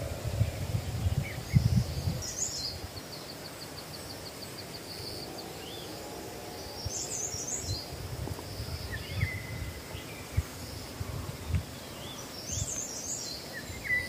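Wild birds calling outdoors: a high, rough call repeated three times, a short rapid trill of about five notes a second a few seconds in, and thin scattered chirps. Low muffled thumps and rumbles come through now and then.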